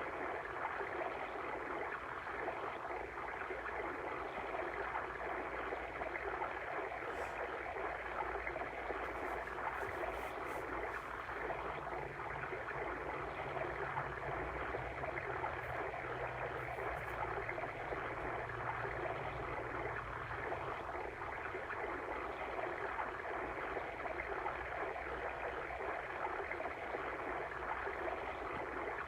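Water stream running steadily, a continuous even rushing and babbling of flowing water used as a relaxing ambient track.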